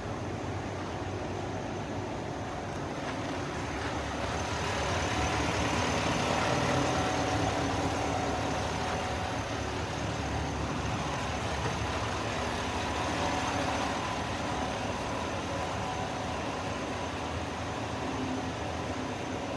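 A pickup truck running, a steady rumble and hiss that swells from about four seconds in and eases off again after about fourteen seconds.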